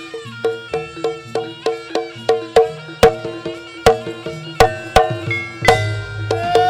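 Live Javanese barongan gamelan music: pitched gong-chime notes in a fast, even repeating pattern, about three strokes a second, driven by sharp drum strokes. Near the end a loud held reed-pipe note comes in.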